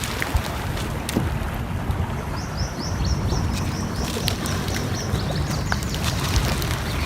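Wood fire crackling with scattered sharp pops over a steady low rushing background. A bird gives a quick run of about a dozen high chirps from about two and a half to nearly five seconds in.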